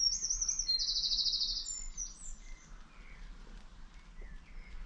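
A small songbird singing: a few quick high notes, then a fast, even trill about a second in, with fainter notes after it over a low outdoor rumble.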